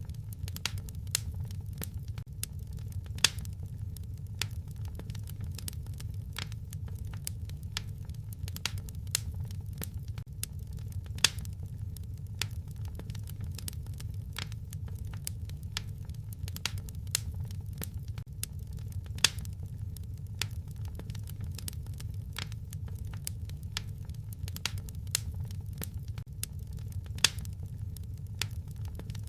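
Wood fire crackling in a fireplace: a steady low rumble of flame with constant irregular small crackles and a few louder, sharper pops spaced several seconds apart.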